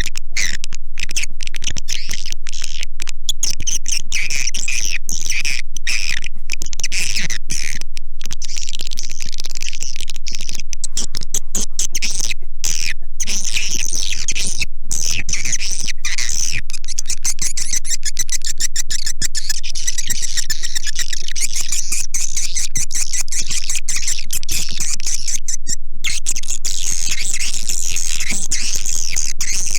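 Swiftlet calls: dense, high chattering and twittering of many birds at once, loud and unbroken, with many very brief dropouts. It is a lure call recording of the kind played to draw edible-nest swiftlets into a nesting house.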